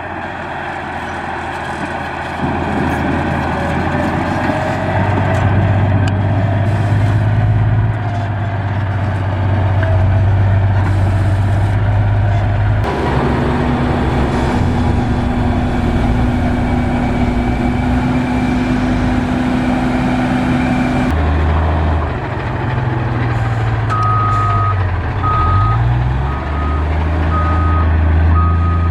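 Diesel engines of heavy road-construction machinery running loudly, the engine note changing abruptly several times. In the last few seconds a reversing alarm beeps in regular pulses over the engine.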